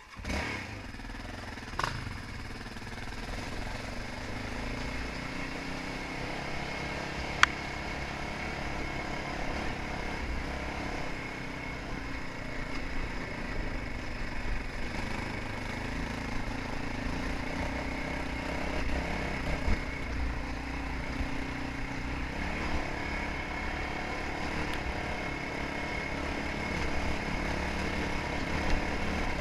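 Motocross dirt bike engine running steadily, starting suddenly at the outset and holding a fairly even pitch with only slight rises. A sharp click cuts through about seven seconds in.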